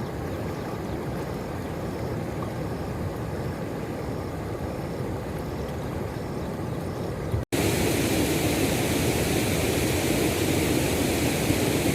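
Steady rush of flowing river water swollen by heavy rain, louder and fuller after an abrupt cut about seven and a half seconds in.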